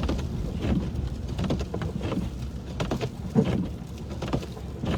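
Car cabin noise while driving on snow-covered streets: a steady low rumble of engine and tyres, with irregular swishes and crackles of slush and snow under the tyres.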